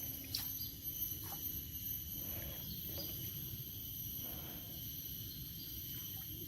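Tropical forest insects chirring steadily in several high, unbroken tones over a low rumble, with a few short clicks in the first half.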